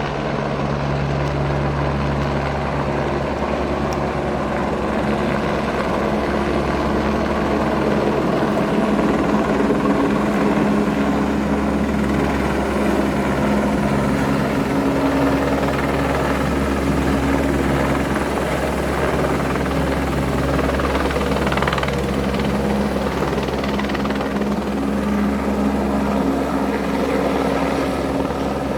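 Helicopter running steadily at close range, its rotor and engine making a continuous loud sound with a low throb and steady tones that shift slightly in pitch.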